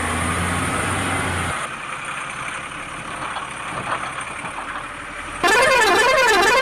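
A vehicle's engine hum, then, about five and a half seconds in, a loud warbling horn whose pitch sweeps up and down about twice a second.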